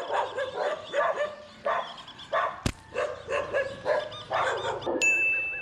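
A dog barking repeatedly, about twice a second. There is one sharp click about halfway through, and a steady high beep starts near the end.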